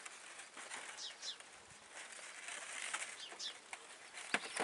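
Outdoor farm ambience: a few short, high bird chirps over a steady background hiss. A single sharp click about four seconds in is the loudest sound.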